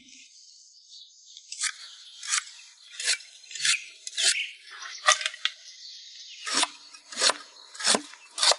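Repeated rasping scrapes, roughly one and a half strokes a second, with a short pause about two-thirds of the way through.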